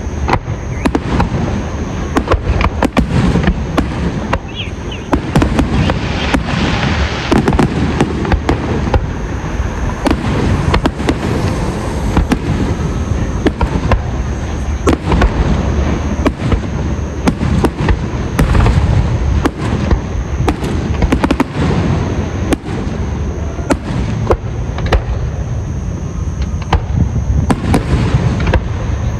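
Fireworks display: many sharp bangs from bursting shells in quick succession over a continuous low rumble of booms, with crackling between.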